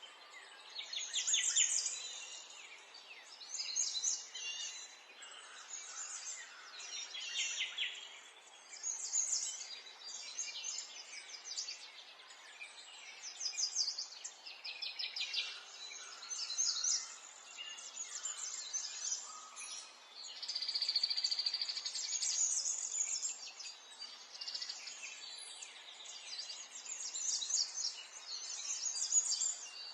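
Small songbirds chirping and twittering, several at once, in bursts of quick high trills that come every second or two over a faint steady background hiss.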